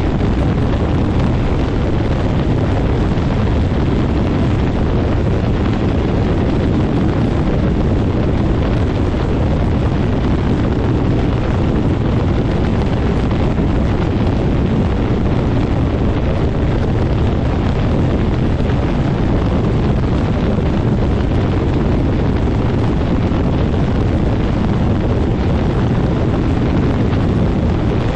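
Quicksilver MX ultralight floatplane's engine and propeller running steadily, with prop blast buffeting the microphone as a constant low rumble of wind.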